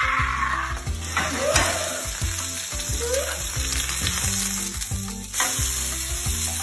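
Steak and a fried egg sizzling in hot oil in a frying pan, with a few scrapes of tongs moving the steak.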